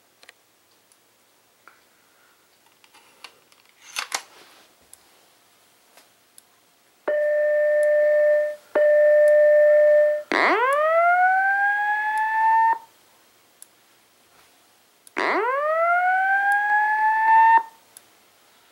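Simplex 2902-9732 LifeAlarm fire alarm speaker sounding the alert tones that lead into a voice evacuation message: two steady beeps of about a second and a half each, then two slow whoops, each rising in pitch over about two and a half seconds. About four seconds in there is a short clack as the Simplex pull station is pulled.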